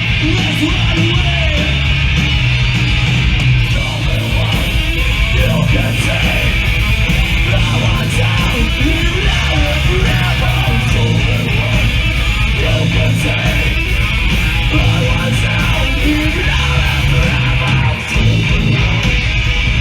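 Live hardcore/emo band playing at full volume: strummed distorted electric guitars, bass and drums.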